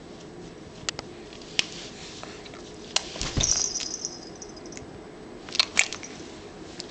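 A pet making wet sucking and smacking noises with its mouth: scattered sharp clicks, with a longer squeaky sucking stretch about three seconds in.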